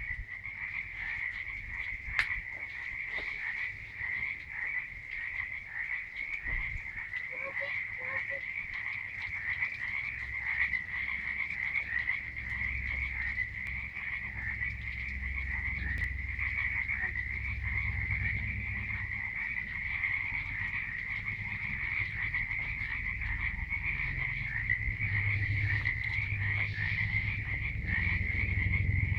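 Dense nighttime frog chorus: many frogs calling at once in a continuous, high-pitched pulsing mass that never pauses. A low rumble builds underneath in the second half.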